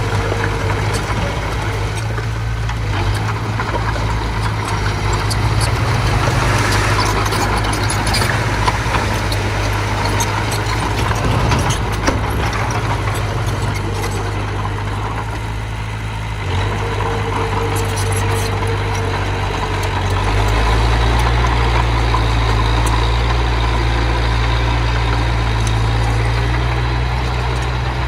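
Diesel engine of heavy earthmoving machinery running steadily, with light clattering in the middle and a deeper, louder engine note from about 20 seconds in.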